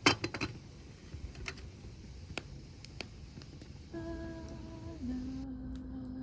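A sharp clatter of clicks at the start, a few single ticks, then from about two-thirds in a voice humming two long held notes, the second a step lower.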